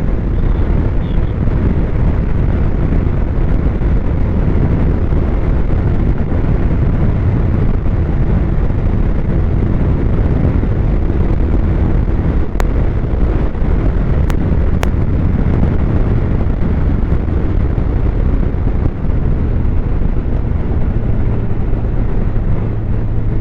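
Snowmobile engine running steadily under way, mixed with heavy wind rumble on the microphone. Three brief clicks come a little past the middle.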